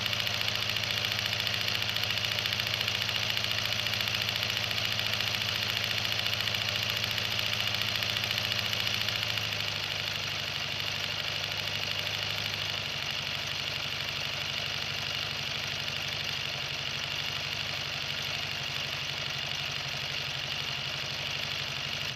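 Ingersoll Rand inline seven-cylinder two-stroke diesel engine running steadily with a deep, knocking beat; about ten seconds in its low tone shifts and it gets slightly quieter.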